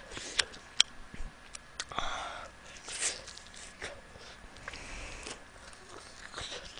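Close-miked eating sounds: scattered small mouth clicks and wet smacks while biting and chewing a sauce-coated spicy chicken wing, with a short breathy sound about two seconds in.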